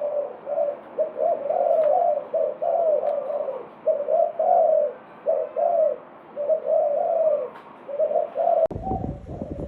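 Spotted dove cooing in a steady series of repeated coo phrases. Near the end a low rushing noise comes in under the calls.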